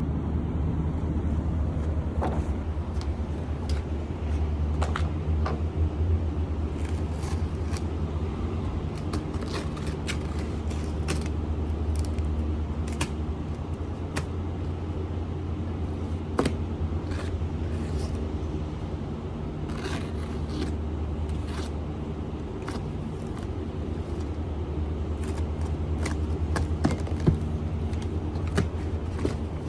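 An engine running steadily at idle, a low even hum, with scattered irregular clicks and knocks over it.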